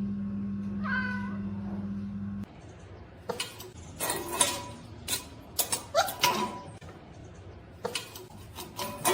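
A cat meowing, a short call about a second in and several more short meows mixed with sharp knocks later on. A steady low hum runs under the first couple of seconds, then stops abruptly.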